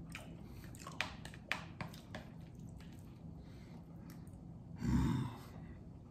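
Faint chewing of rice and beans, with a few light clicks of a metal utensil against a plastic takeout bowl about one to two seconds in, then a short breath out about five seconds in.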